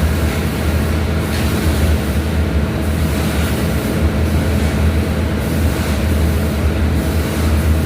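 Small bandsaw running steadily: a motor hum with a faint swish repeating about once a second.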